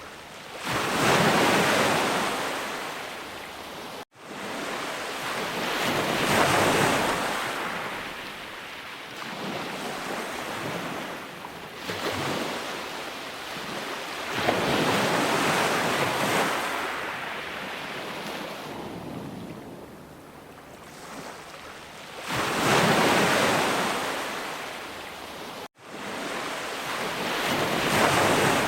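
Sea waves breaking and washing up the shore, one surge swelling and fading every four to five seconds. The sound cuts out abruptly for an instant twice, about four seconds in and near the end.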